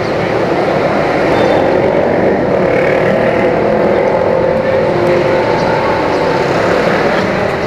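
Electric commuter train running past the station platform: a loud, steady rumble with a faint wavering motor whine, easing off at the end.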